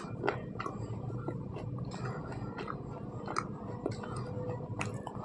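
Slate pencil being chewed in the mouth: sharp, irregular crunches, about two or three a second.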